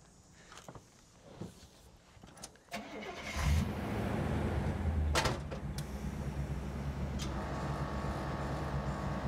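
1989 Chevrolet Suburban's engine starting a little over three seconds in, running up loud and then settling into a steady idle. A single sharp knock comes about five seconds in.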